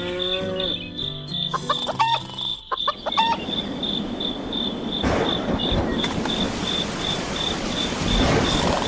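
Chicken calls over a steady, rapidly pulsing insect chirp; from about three seconds in, a dense rushing noise with low thumps takes over.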